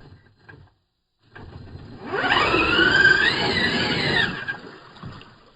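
Brushless electric motor and drivetrain of an RC mud truck whining under throttle; the whine comes in about two seconds in, rises and wavers in pitch with the throttle for a couple of seconds, then fades, over a low rumble of tyres in mud.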